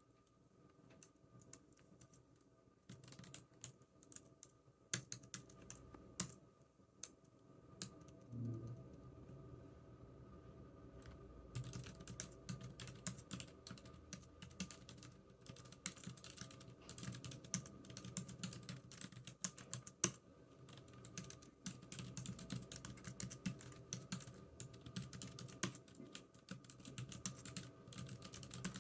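Typing on a computer keyboard: a few scattered keystrokes at first, then steady, continuous typing from about eleven seconds in.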